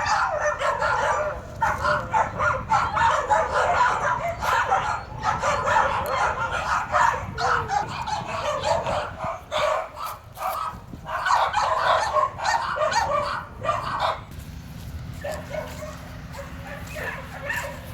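Dogs barking and yipping over one another in a dense, continuous chorus of shelter kennel dogs, thinning out about three-quarters of the way through.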